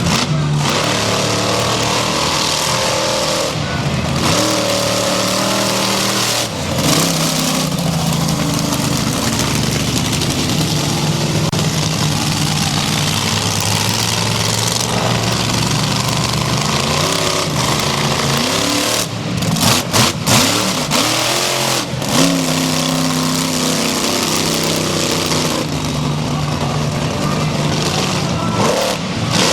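Monster truck engine running hard and revving over a dense wash of noise, its pitch climbing and falling sharply about six seconds in and again around twenty seconds in.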